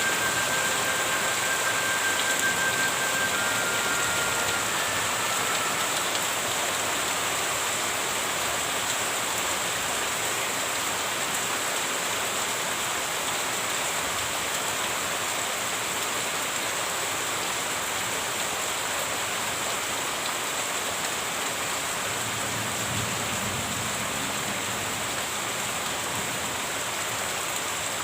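Steady, continuous rain falling, an even hiss with no break, with a few thin high whistling tones in the first few seconds.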